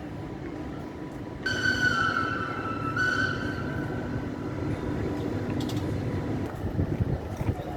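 Train horn sounding for about three seconds in a high-low-high pattern, over the steady low rumble of a train.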